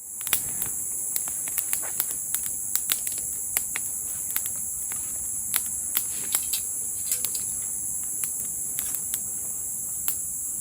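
Campfire crackling, with irregular sharp pops a few times a second, over a steady high-pitched chorus of crickets.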